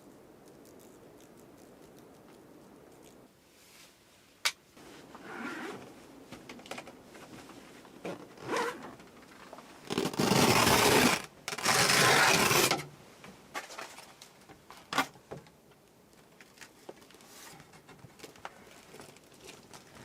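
Handling noises: light rustling and scraping, a sharp click about four seconds in, then two loud scraping sweeps of about a second each near the middle.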